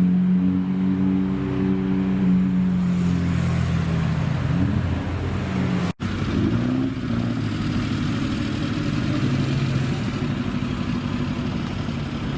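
Supercar engines running: one idles steadily with a short rev about four and a half seconds in. After an abrupt cut, another blips its throttle, rising and falling in pitch, then runs on steadily.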